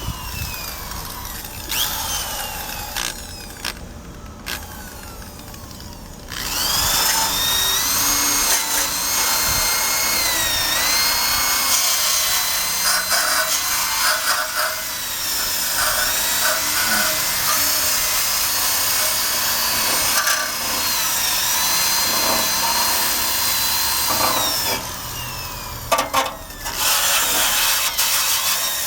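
Electric drill with a wire brush attachment scrubbing rust off a motorcycle's steel frame, its motor whine rising and falling as it is pressed against the metal. It eases off twice, a few seconds in and near the end.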